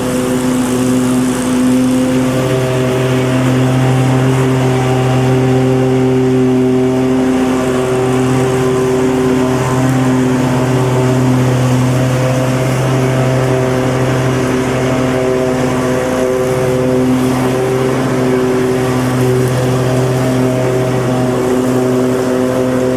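Lawn mower engine running steadily at a constant speed, a loud continuous drone with a strong low hum.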